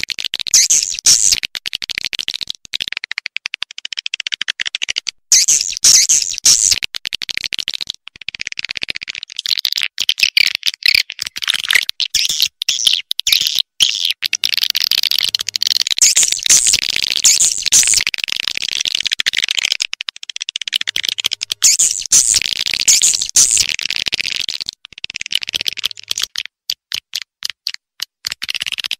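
Swiftlet calls: dense, rapid, high-pitched twittering chirps in long bursts with short gaps, breaking into short pulses about three a second near the end.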